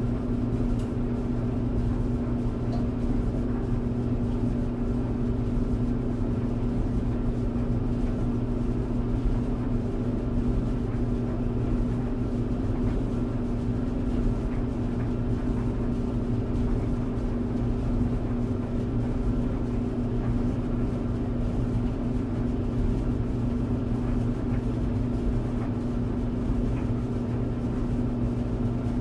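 Clothes dryer running steadily: a constant motor hum and drum rumble with faint light ticks of the load tumbling.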